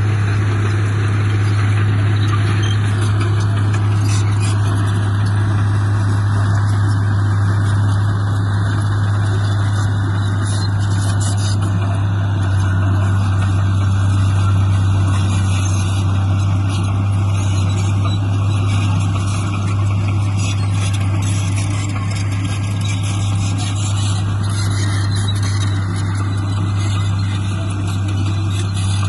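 Heavy earthmoving machine's diesel engine running steadily, with a constant deep drone.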